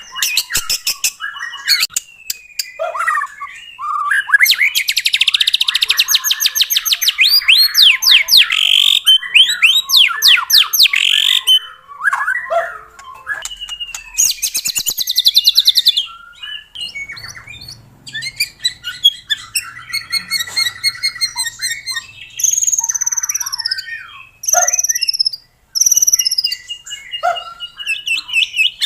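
White-rumped shama singing in full song: a long, varied run of loud whistles, rapid trills, quick repeated notes and falling slurred whistles, with only brief pauses between phrases.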